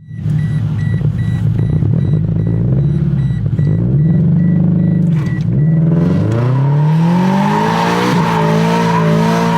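Car engine revving under hard driving, its pitch rising and falling. About six seconds in it climbs steadily as the car accelerates, and a hiss builds alongside.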